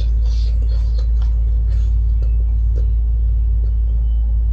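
A steady deep low rumble, the loudest thing throughout, with faint small clicks and smacks of someone chewing food.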